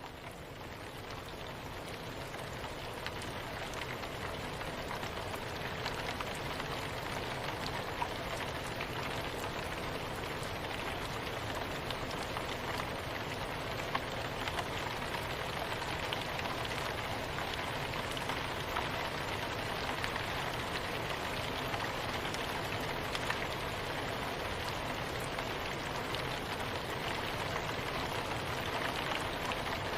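Soft, steady rain falling on a surface, an even hiss with scattered drop ticks. It fades in over the first few seconds, then holds level.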